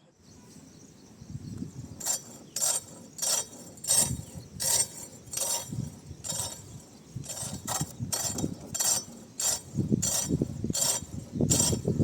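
Ola S1 Pro electric scooter's front disc brake scraping in a regular rhythm, about three strokes every two seconds, over a low rumble. The front brake pad is worn right through, so its metal is grinding against the brake disc.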